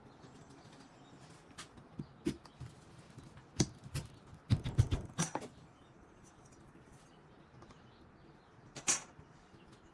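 Clicks and knocks from a Ryobi RE1200A plunge router being handled while its depth is set by hand, with the depth stop rod adjusted and locked. The knocks are scattered, with a quick cluster about halfway through and one more near the end.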